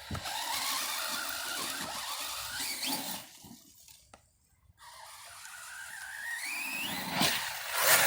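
Electric motor of an Arrma Outcast RC stunt truck whining as it drives, going quiet briefly about halfway, then a steadily rising whine as it speeds up, followed by louder clattering hits near the end.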